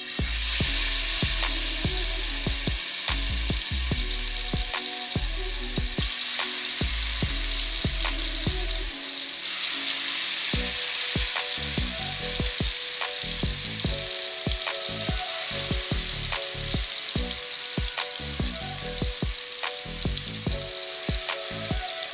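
Marinated chicken pieces sizzling as they shallow-fry in hot oil in a steel pan, a steady hiss that starts as the first piece goes in. Background music with a steady beat plays under it.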